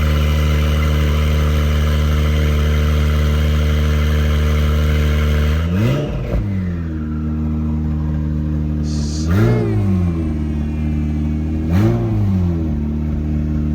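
Acura NSX Type S twin-turbo V6 running at a loud, steady fast idle just after a cold start. About six seconds in, a short rev brings it down to a quieter idle. Two more quick throttle blips follow, the pitch rising and falling each time.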